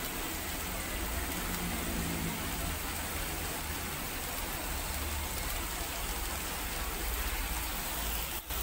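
Kangkong (water spinach) frying in a hot pan: a steady sizzling hiss.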